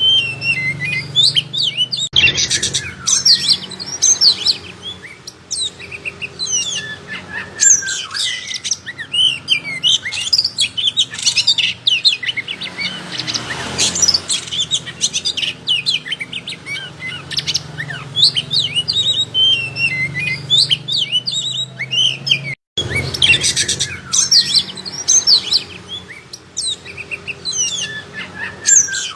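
Oriental magpie-robin (kacer) singing nonstop: a rapid, varied run of chirps, trills and whistles. The song cuts out for an instant about two-thirds of the way through.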